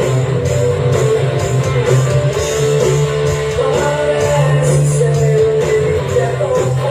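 Rock band playing a song, with guitar to the fore over a steady bass line.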